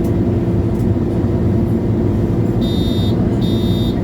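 MAN A23 Lion's City G articulated city bus's diesel engine running steadily. Two electronic beeps, each about half a second long, sound in the second half.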